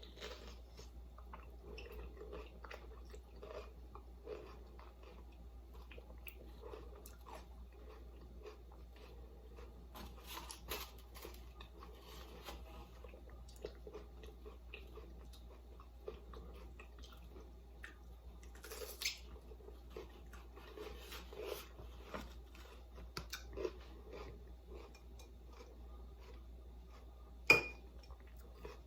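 A person chewing and crunching mouthfuls of a bell pepper stuffed with chili and cream cheese, in small irregular crunches. A sharp click sounds near the end, over a steady low hum.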